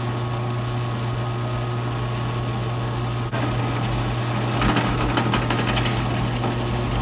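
A motor running steadily at one even pitch, cutting out for an instant a little past three seconds in, with a spell of rattling a second or two later.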